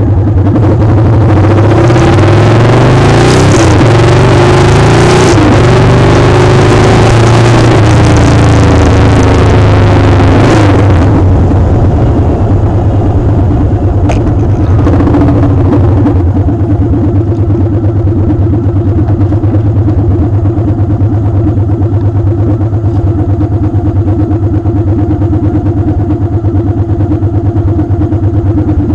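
Motorcycle engine running under heavy wind noise, its pitch shifting; about eleven seconds in the wind drops away and the engine settles to a steady idle.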